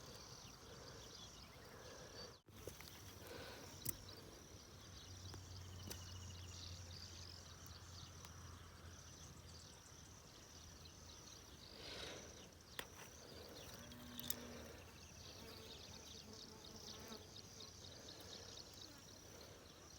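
Faint chorus of insects: a steady high buzz made of rapid ticking pulses. A low hum sits underneath for a few seconds in the first half, and there are a few short clicks.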